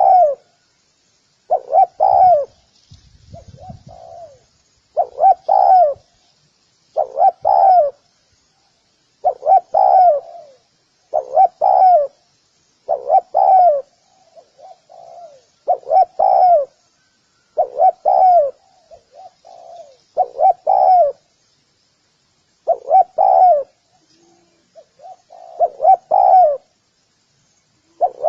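Spotted dove cooing over and over, a phrase of two or three coos about every two seconds, with faint high chirping behind it.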